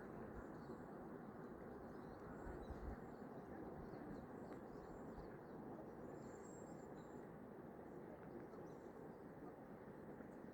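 Faint steady outdoor background noise with scattered small, high bird chirps.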